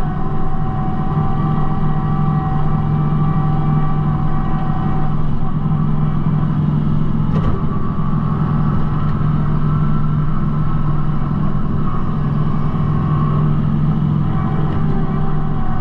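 Kubota B2650 compact tractor's three-cylinder diesel engine running steadily, with a steady whine over it and a single click about halfway through.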